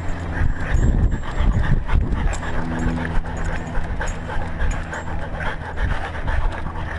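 Dog panting right at a collar-mounted GoPro, with constant low rumbling and knocking from the camera bumping and rubbing on the collar as the dog walks.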